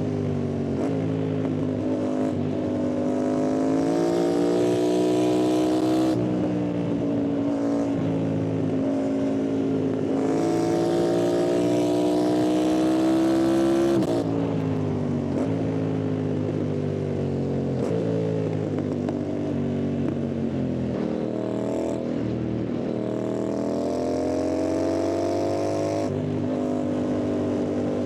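A Yamaha MT-07's parallel-twin engine and exhaust accelerating hard. The revs climb through a gear and drop at each upshift, twice. Midway the revs fall in steps as it slows, then it pulls up through the gears again, with another shift near the end.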